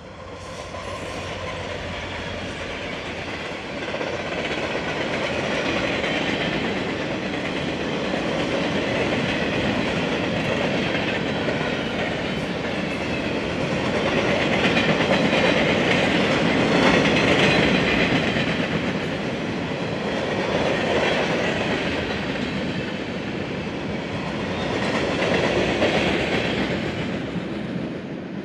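Union Pacific freight train passing close by: diesel locomotives go past, then a long string of boxcars rolls by with steady wheel-on-rail noise. The sound swells and eases several times and drops off at the very end.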